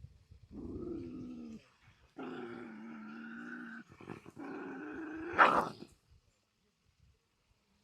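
An animal's voice: three drawn-out calls, each holding a steady pitch. The third ends in a short, much louder cry about five and a half seconds in.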